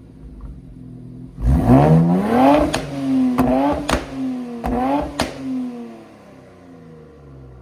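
Nissan Z's twin-turbo V6 through a freshly fitted AWE Touring exhaust: idling, then revved up sharply about a second in and blipped a few times, with sharp snaps as the throttle closes, before settling back to idle.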